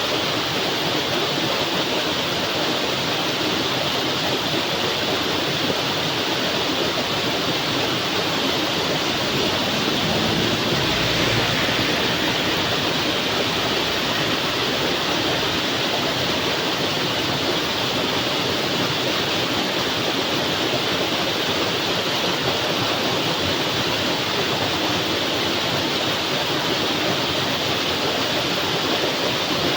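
Heavy tropical rain falling steadily, a dense even hiss that swells slightly about ten seconds in.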